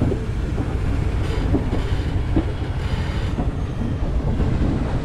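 Passenger train coach running along the track: a steady rumble of wheels on rails, with two brief rises of hiss about one and three seconds in.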